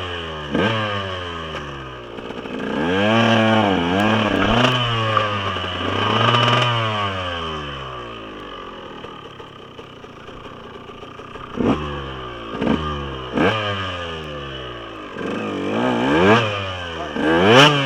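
Dirt bike engine revving hard in repeated bursts, the pitch sweeping up and falling back each time, with a longer wavering rev about three to seven seconds in and a run of quick blips from about twelve seconds on, as the bike is powered through deep mud.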